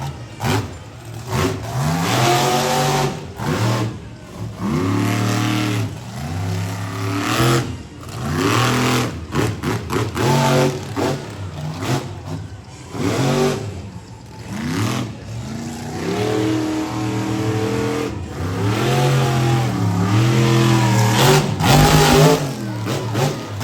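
Monster truck engine revving hard again and again, its pitch sweeping up and down every second or two as the throttle is worked.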